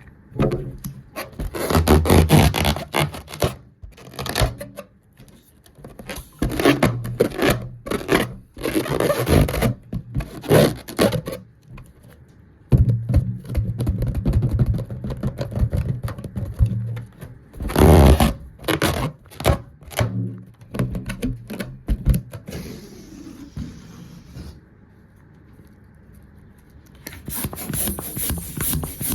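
Irregular scraping and rubbing noises in bursts of a second or two, with quieter gaps between them.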